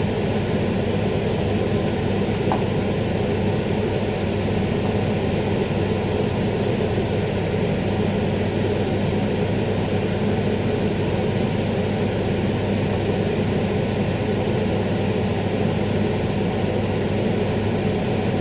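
Steady mechanical hum with an even hiss, holding at the same level with no breaks or changes.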